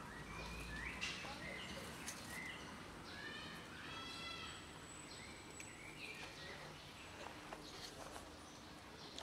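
Birds chirping and calling in the background, a run of short whistled notes in the first half, over faint outdoor ambience with a few soft clicks.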